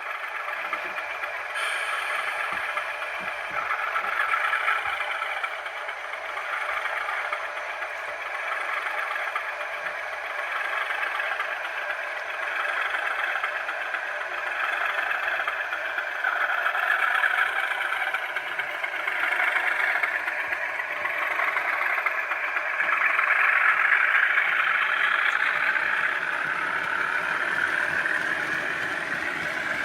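Model railway diesel locomotive's DCC sound decoder playing a diesel engine running through its small onboard speaker, with no deep bass. The engine note swells and eases, then revs up near the end.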